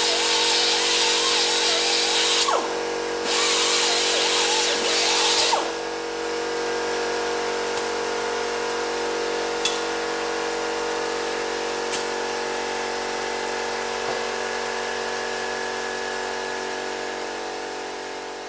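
Angle grinder grinding down welds on a steel repair panel, in two loud bursts of grinding about two and a half seconds long, then running on without contact in a steady whine that slowly fades.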